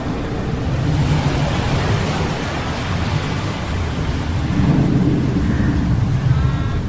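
Storm sound effect: steady rain hiss with low rolling thunder rumbles, swelling about a second in and again past the middle, over a low mechanical hum of metal gears.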